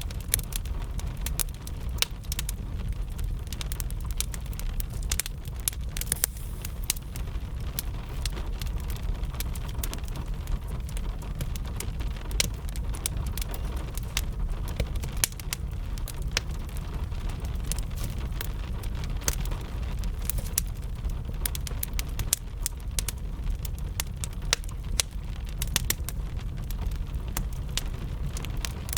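Wood fire crackling with frequent sharp, irregular pops over a steady low rumble, with rain falling.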